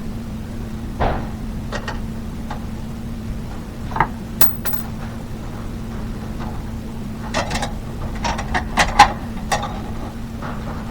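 A string of light knocks and clicks, bunched most densely about seven to nine seconds in, over a steady low hum.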